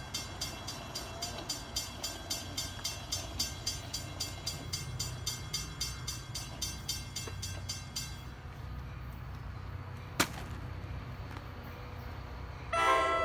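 Train wheels clicking rhythmically over rail joints, about three to four clicks a second, stopping about eight seconds in. A single sharp click follows, and a train horn starts sounding near the end.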